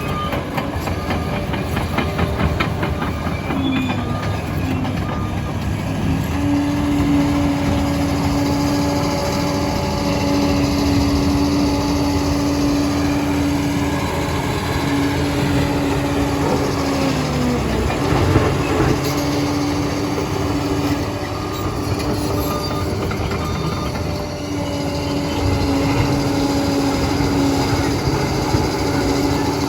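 Liebherr 746 crawler dozer working: its engine runs under a steady whine while the steel tracks clank and squeal. The whine drops in pitch briefly about 17 seconds in, then comes back.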